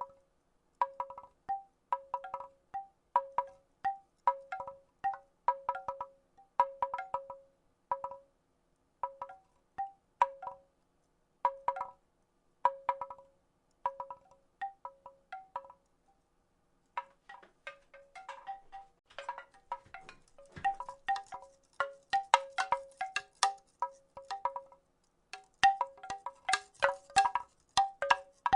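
Wooden rattle shaken in irregular bursts of hollow clacks, each ringing briefly on a few notes. It pauses for about a second midway, then the clacks come denser and brighter.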